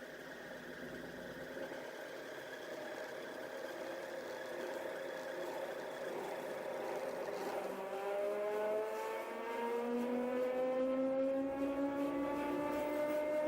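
Kallithea gyroplane's engine and propeller running, steady at first, then rising steadily in pitch and getting louder from about halfway through as power is added.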